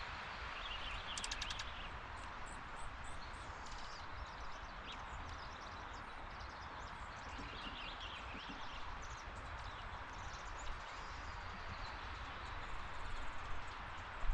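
Backyard outdoor ambience: a steady background hiss with short bird chirps scattered through it, and a quick run of clicks about a second in.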